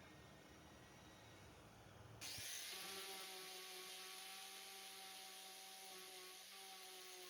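A small electric power tool switched on about two seconds in, then running steadily with a whine over a hiss.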